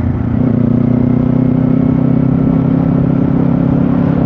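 Kawasaki Z500 motorcycle's parallel-twin engine running at a steady speed while riding, with wind and road noise on the microphone.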